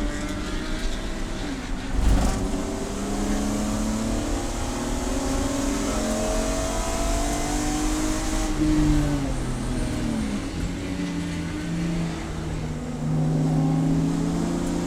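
Race car engine under hard running, its pitch climbing and dropping repeatedly as it revs up and downshifts, with a brief thump about two seconds in.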